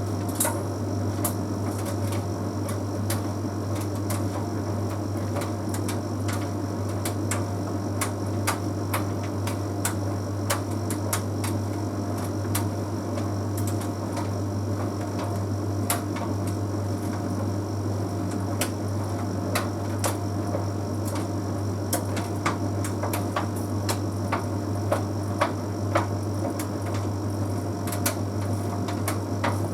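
Bosch Series 6 heat pump tumble dryer running mid-cycle: a steady hum from the machine, with irregular light clicks and ticks as the load tumbles in the drum.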